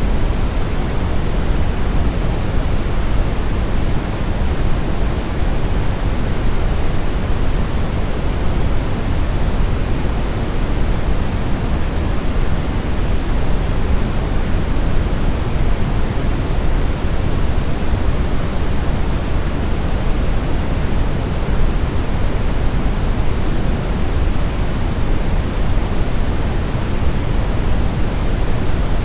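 Steady synthetic brown noise: an even, unchanging rushing hiss weighted heavily toward the low end, with no tones or events.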